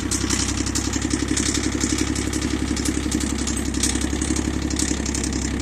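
Small Yanmar diesel tractor engine running steadily at idle, freshly started.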